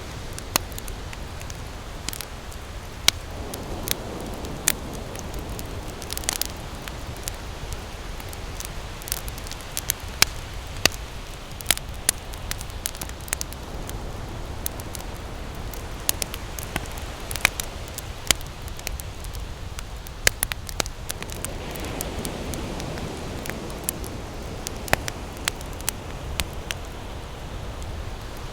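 Campfire crackling, with many sharp, irregular pops over a steady rush of ocean surf. A wave washes in about four seconds in and again just past twenty seconds.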